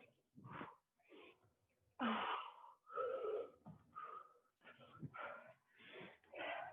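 A person breathing hard and fast in repeated noisy gasps, out of breath from doing burpees.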